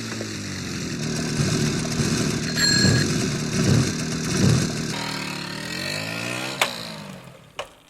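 A motor or small engine running, its pitch wavering, then dipping and rising again about five seconds in. A brief high tone sounds about two and a half seconds in, and a sharp click comes near the end.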